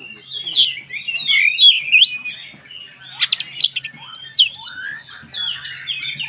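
Oriental magpie-robin (kacer) singing a rapid, varied song of whistled notes that rise and fall, mixed with harsher chattering notes, with a quick run of sharp strokes about three seconds in.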